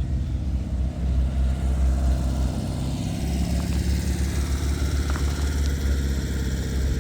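A car engine running steadily at low revs, idling.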